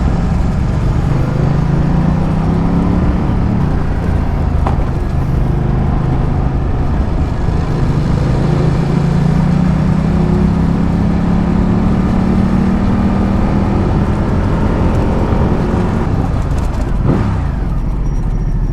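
Ducati Multistrada 1200's V-twin engine pulling on the road, its pitch climbing and easing off a few times with the throttle and dropping away near the end, over steady wind and road noise.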